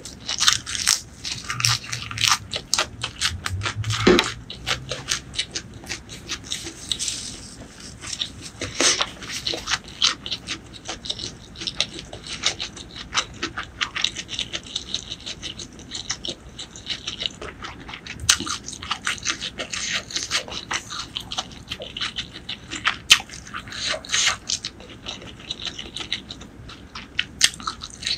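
Mouth sounds of a person chewing a mouthful of fresh basil leaves and stems close to the microphone: a dense, uneven run of small crisp crunches and wet clicks.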